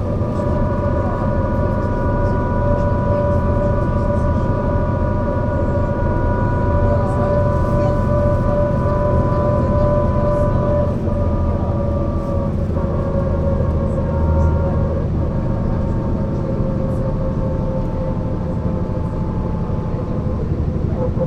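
Mercedes-Benz O 405 NÜ low-floor bus driving, its diesel drivetrain giving a steady low rumble with several whining tones on top. The whine eases slightly lower in pitch a little past halfway and again near the end.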